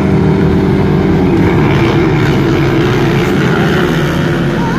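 Motocross bike engines running loud under throttle. The engine note holds steady, then drops a little about a second and a half in.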